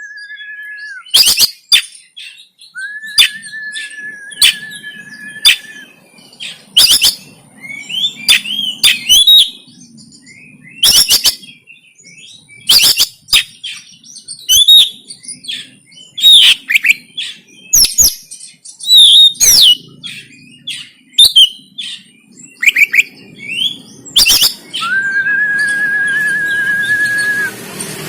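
Oriental magpie-robin (kacer) singing in an agitated, fighting mood: a rapid, irregular series of loud, sharp clicking notes and short chirps, broken twice by a long, level whistled note held for about two and a half seconds.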